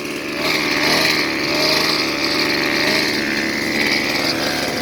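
Small engine of a three-wheeler revving up about half a second in, then running steadily at high revs as the rider opens it up.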